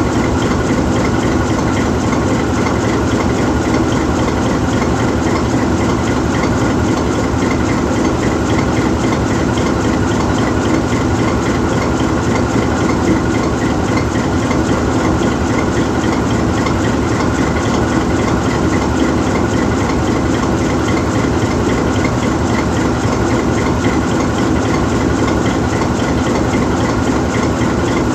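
GE U20C diesel-electric locomotive's 12-cylinder diesel engine idling steadily while the locomotive stands still, a loud, even running sound with a constant hum.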